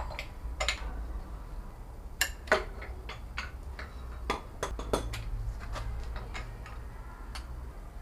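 Irregular sharp metallic clicks and clinks of hand tools working on the engine's bottom end, as the connecting-rod big-end caps are undone to get the pistons out, over a steady low hum.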